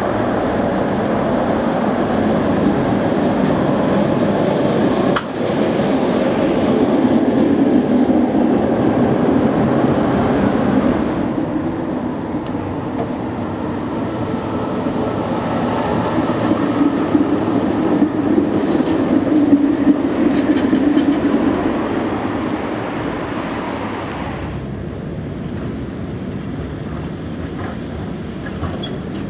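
Tram running on street track: a steady rumble of steel wheels on the rails and the running gear. It changes character abruptly a few times and is loudest a little past the middle.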